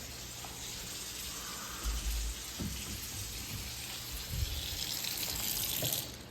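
Kitchen sink faucet running with a steady hiss of water, shut off about six seconds in, with a few soft knocks.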